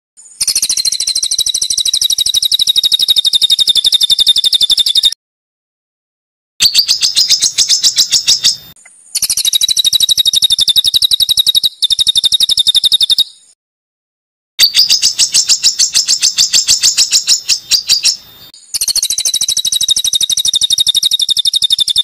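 Songbird giving long, very fast trills of harsh, high repeated notes in bouts of about two to five seconds, separated by short dead-silent gaps.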